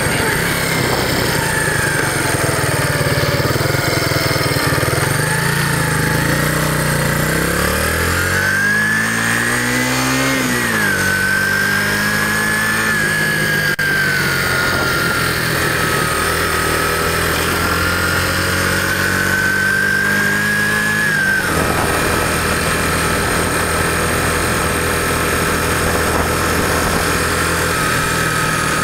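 Yamaha SR250's single-cylinder four-stroke engine running on the move. The revs climb about eight to ten seconds in, hold fairly steady, then drop suddenly a little past twenty seconds and stay lower.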